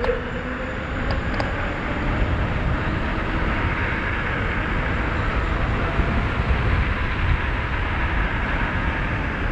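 Steady wind rush and road noise on a helmet-mounted camera microphone while riding a 72-volt, 5000-watt DIY electric-bike kit at speed, with a heavy low rumble.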